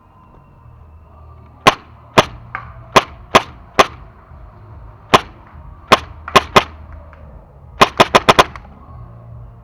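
Paintball marker firing tracer paintballs: about ten single sharp shots at uneven intervals, then a quick burst of about six shots near the end.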